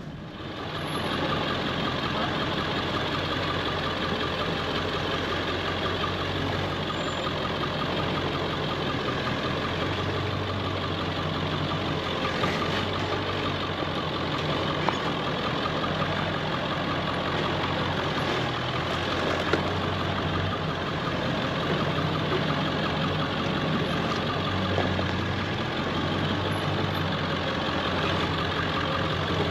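Ford F-350 pickup's engine running steadily at low, near-idle speed as the truck crawls along. A couple of faint, brief knocks come in partway through.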